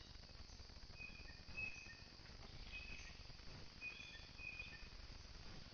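Several short, high bird chirps, faint, over a steady background hiss.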